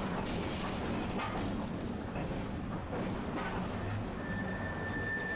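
Streetcar running, a steady rumble of motor and wheels on rail with scattered clicks and knocks. A steady high-pitched tone comes in about four seconds in and holds.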